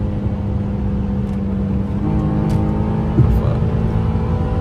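Infiniti G37's V6 engine running at a steady pitch at highway speed, heard from inside the car over low road rumble; more engine tones come in about two seconds in, and there is a brief thump about three seconds in.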